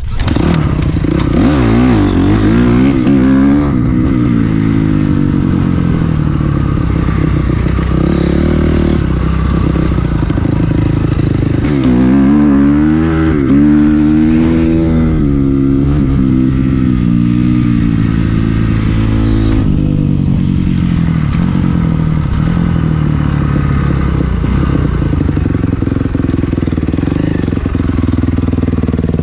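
Dirt bikes racing under hard throttle, the engine note climbing and dropping again and again as the riders rev out and shift.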